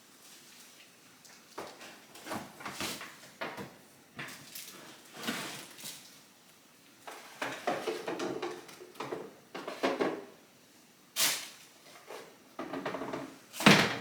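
Food containers, jars and bottles being taken out of a refrigerator and set down, a run of irregular knocks and clatters, the loudest near the end.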